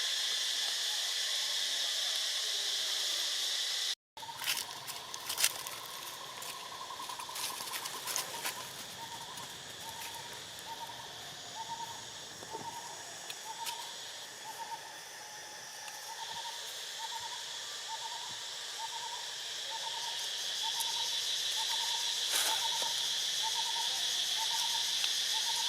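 Steady high drone of insects, with a short hoot-like call repeating about once a second through most of the clip. The sound cuts out for a moment about four seconds in, and a few sharp clicks follow.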